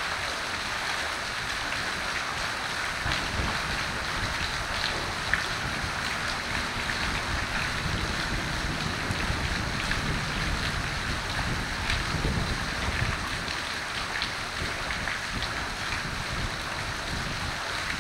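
Steady rain falling: a dense, even hiss dotted with the ticks of individual drops.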